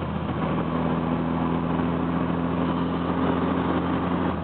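Swapped 1.8-litre turbocharged four-cylinder engine of a Mercury Tracer running under way at a steady pitch, a little louder from about half a second in.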